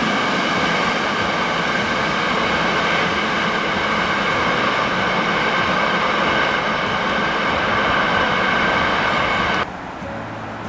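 Container freight train running past on the rails: a loud, steady noise of wheels on track with a held ringing tone, which cuts off suddenly near the end.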